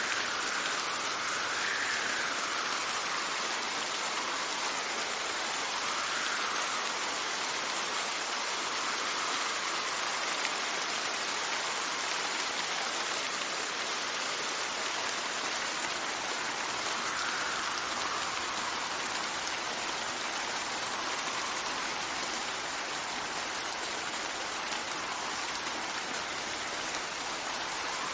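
Steady rain falling in an even hiss, with gusts of wind that swell and fade in pitch several times.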